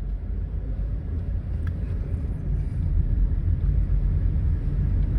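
Low rumble of a car driving, engine and tyre noise heard from inside the cabin, gradually getting louder.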